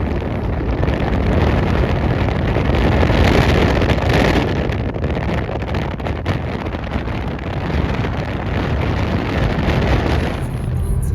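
Steady rushing road and wind noise of a car driving along, which eases off near the end.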